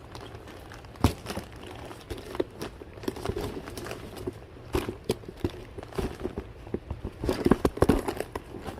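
Rummaging through purses and bags: crinkling and rustling with scattered knocks and clicks. There is a sharp knock about a second in, and a busier flurry of handling noises near the end.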